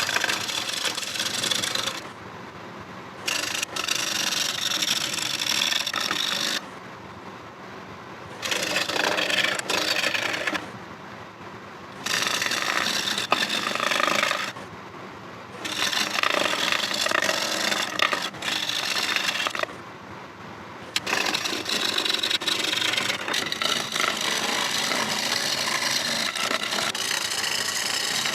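Turning tool cutting a hard rosewood bowl blank spinning on a wood lathe, a steady noisy shaving sound, broken about five times by a second or two where the tool comes off the wood and only the lathe's running noise is left. The cuts are taking the blank down below a chainsaw groove.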